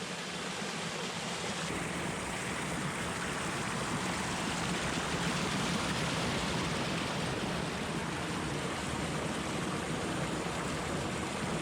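Steady rush of water flowing in a small hill stream.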